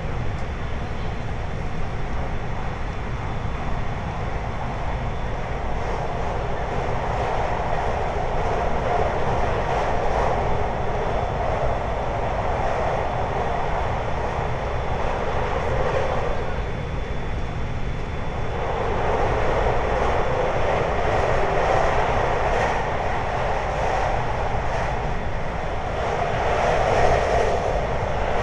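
Running noise of a 521-series electric multiple unit heard on board: a steady low rumble of wheels on rail under a hiss that swells and eases a few times, dipping briefly past the middle.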